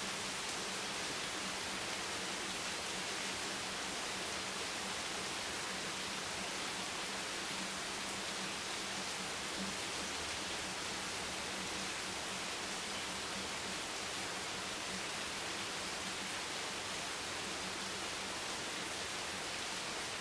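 Steady rain falling as an even, unbroken hiss, with a faint low hum underneath.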